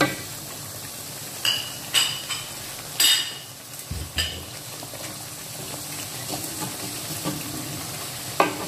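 Ground spice paste with salam leaves, lemongrass and galangal frying in a wok with a steady sizzle, as it is sautéed until cooked. A spatula stirs it, knocking and scraping against the wok several times, the longest scrape about three seconds in.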